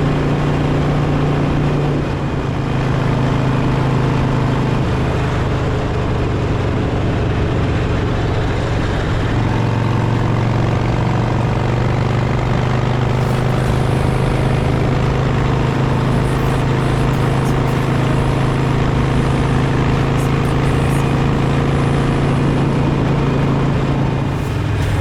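Harley-Davidson Sportster V-twin engine running steadily under way, with wind rush. The engine note steps down about two seconds in and again near ten seconds in.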